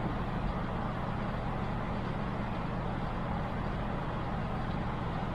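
Steady, unchanging background hum with a low drone and an even hiss, like a fan or motor running.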